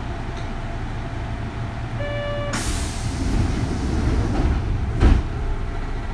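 Inside a Kintetsu 3200 series car, a steady low rumble runs throughout. About two seconds in there is a short beep-like tone, followed at once by a sharp hiss of released compressed air, and a single thump about five seconds in.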